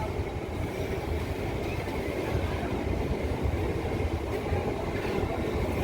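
MEMU electric multiple-unit local train running, a steady rumble with no distinct wheel clatter.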